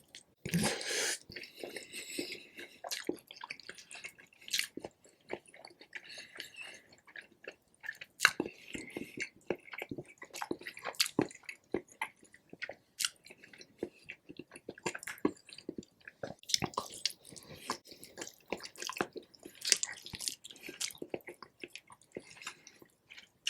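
Close-miked chewing and biting of rotisserie chicken: a steady run of wet, irregular mouth clicks and smacks.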